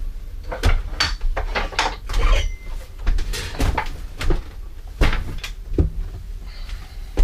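Handling sounds: an irregular string of knocks, clicks and rustles, as of objects and tools being picked up and set down, over a steady low hum.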